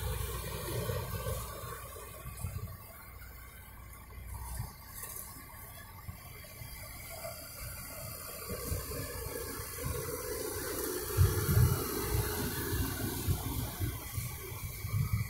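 Double-stack container well cars of a freight train rolling past: a steady rumble and hiss of steel wheels on rail, with a few louder low thuds about eleven seconds in and again near the end.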